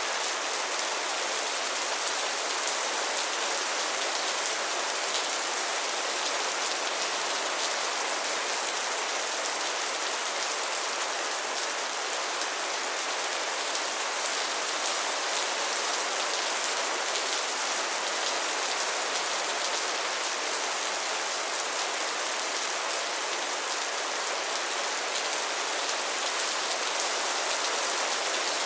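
Steady rain falling on a hard surface, a dense patter of drops under an even hiss.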